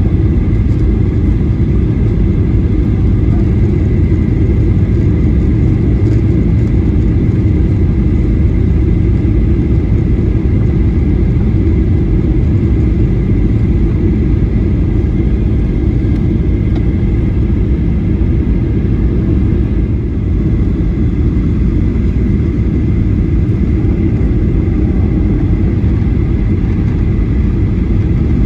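Boeing 737-800 cabin noise: a steady, loud low rumble of the engines and airflow, with a faint steady high whine over it.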